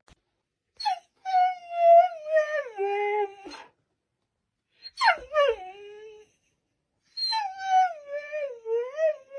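A dog howling in three long, wavering, whining calls. The pitch slides downward within each call, and the second call starts high and drops steeply.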